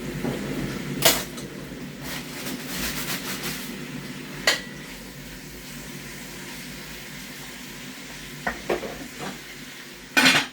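Chicken frying in oil in a pot, sizzling steadily, with a metal spoon clinking against the pot a few times and a louder clatter near the end.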